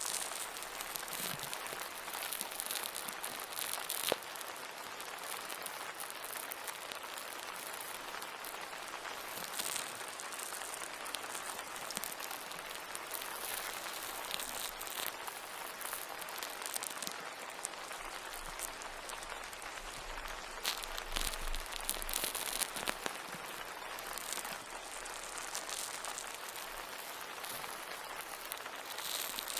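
A steady white-noise soundscape: an even hiss dotted with dense small crackles and ticks, like rain pattering or something crackling, with a few sharper ticks along the way.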